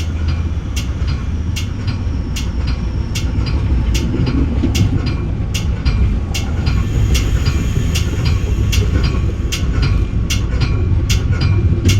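Metra bi-level commuter car riding at speed on the rails, heard from inside the front car: a steady low rumble with sharp clicks recurring about once a second.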